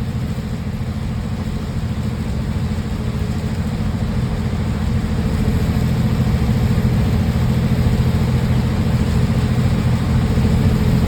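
A big truck's engine running steadily, heard from inside the cab as a low drone with a constant hiss over it. It grows a little louder about halfway through.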